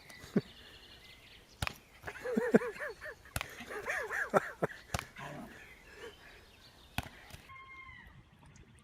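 A dog whining in short rising-and-falling whimpers, mostly between about two and five seconds in, with several sharp clicks scattered through.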